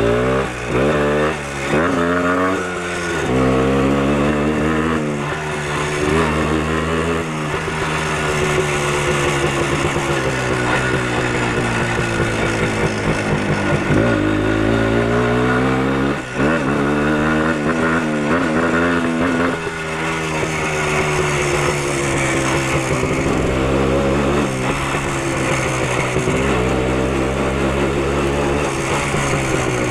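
Minsk motorcycle's single-cylinder two-stroke engine under way, pitch climbing and falling back with each gear change several times in the first three seconds and again about halfway through, then holding steady at cruising speed.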